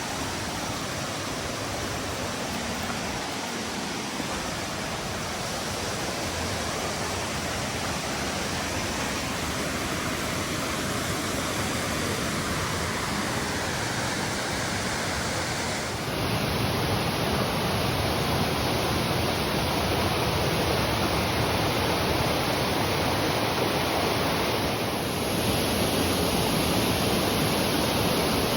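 Chush Falls waterfall rushing: a steady, even roar of falling and cascading water. It steps up abruptly to a slightly louder, brighter rush about halfway through, and again near the end.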